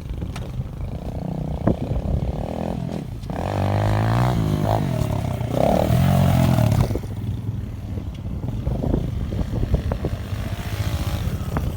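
Pit bike engine revving, its pitch rising and falling, loudest from about three to seven seconds in.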